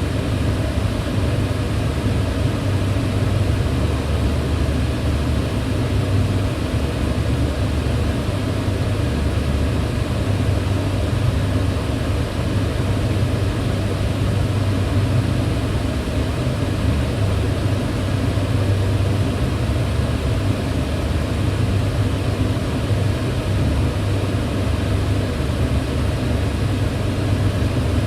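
Kitchen range hood fan running steadily: an even rush of air over a low motor hum, with no change in pitch or level.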